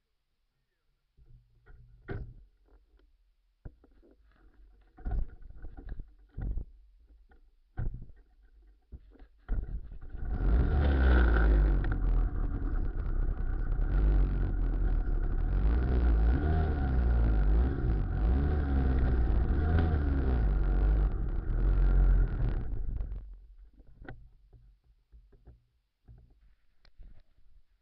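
Motor tricycle engine running, its pitch wavering up and down, for about twelve seconds, coming in abruptly after a run of scattered knocks and thumps and fading away near the end.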